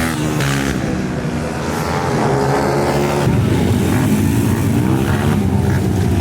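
Racing minibike engines running hard on track, their pitch rising and falling as the riders accelerate and back off, with a change in the engine note about halfway through.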